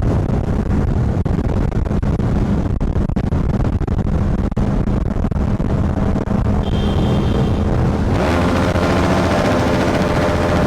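Motorcycle engine running close to the microphone: a rapid, rough stream of firing pulses, then a clearer engine note that climbs in pitch from about eight seconds in as it revs.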